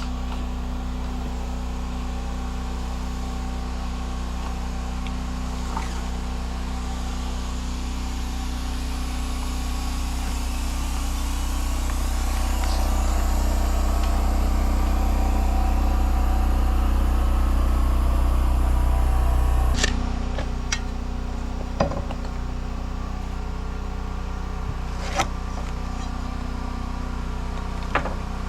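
An engine running steadily with a low hum. It grows louder over about ten seconds, then drops back abruptly about twenty seconds in, and a few sharp knocks follow.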